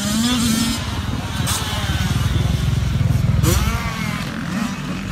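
Dirt bike engine revving hard on a motocross track, its pitch climbing and dropping several times as the rider throttles and shifts.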